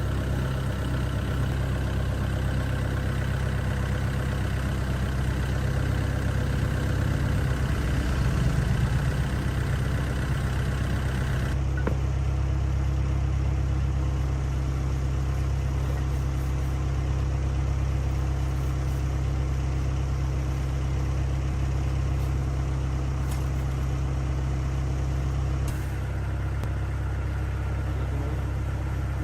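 An engine idling steadily, with a low, even hum. Its sound changes abruptly about twelve seconds in and again near the end.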